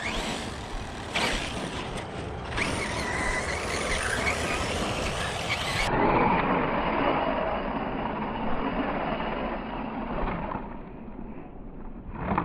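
Arrma Notorious RC monster truck driving over dirt, its Spektrum 1250kv brushless motor whining under throttle while running on an 8S battery.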